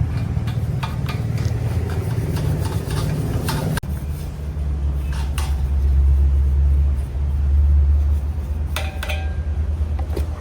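A motor running with a steady low hum, with light metallic clinks over it; the sound cuts off and resumes about four seconds in.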